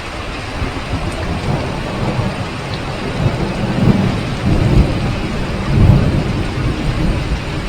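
Heavy rain pouring steadily, with thunder rolling underneath, swelling loudest about halfway through and easing toward the end.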